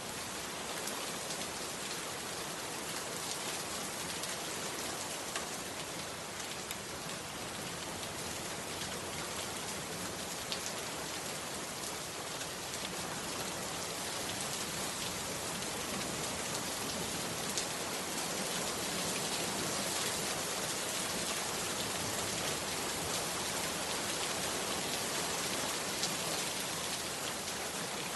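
Heavy rain falling steadily, a dense hiss with individual drops ticking through it, growing slightly louder about halfway through.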